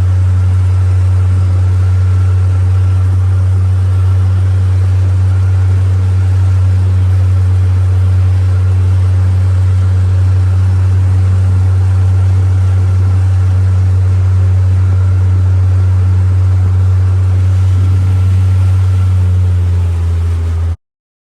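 An engine running at a steady speed, a loud, even low hum with a few fainter steady tones above it. It cuts off suddenly near the end.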